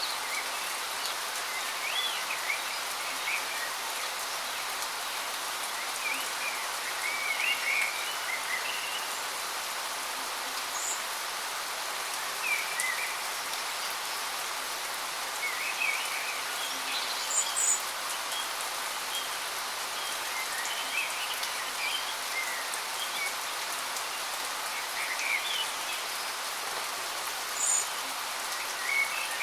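Steady rushing water of a waterfall, with songbirds chirping in short scattered phrases throughout and a few brief high notes.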